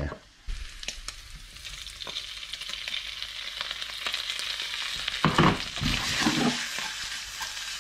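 Spider crab meat and sliced abalone frying in a pan with garlic, a steady sizzle that starts about half a second in and builds. A few knocks and scrapes come from the pan being shaken about five seconds in.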